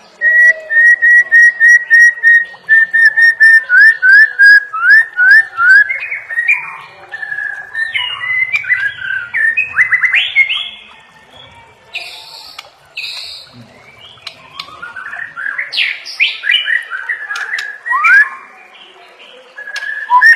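White-rumped shama (murai batu) singing: a fast run of repeated whistled notes at one pitch, then a string of falling slurred notes and varied phrases. After a quieter stretch in the middle, a second burst of quick rising and falling notes follows.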